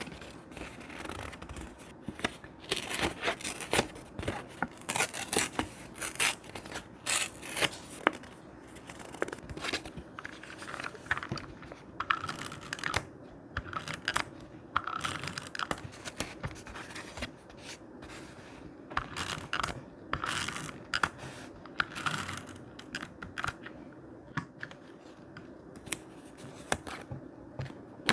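Thick paper being handled and worked for a scrapbook page: a continuous run of short, dry rustles and crinkles of uneven loudness.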